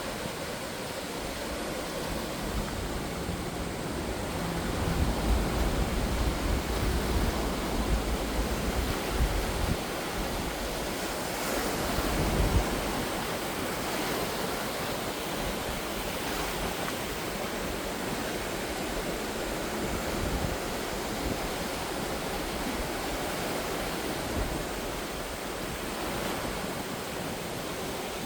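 Ocean surf washing ashore in a steady, noisy rush, swelling louder with a deep rumble about five to ten seconds in and again briefly around twelve seconds.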